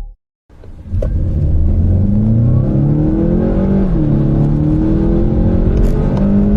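After a brief silence, a car engine accelerating hard from a standstill, rising steadily in pitch, with an upshift about three seconds later and the pitch climbing again afterwards.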